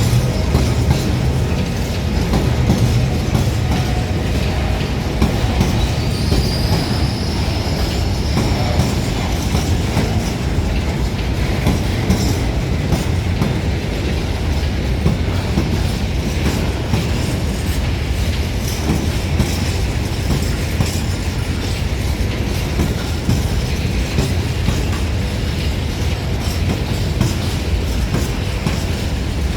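Train rolling along the rails with a steady rumble and rapid clicking of wheels over the rail joints, and a faint high wheel squeal about six seconds in.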